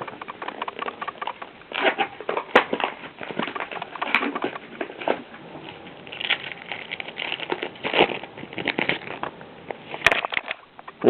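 Yu-Gi-Oh! booster pack and cards being handled: irregular crinkling of the foil wrapper and rustling of cards, with a few sharper clicks.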